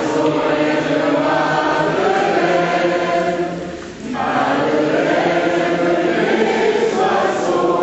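A choir singing a slow song in long held notes, breaking off briefly about four seconds in before the voices come back in.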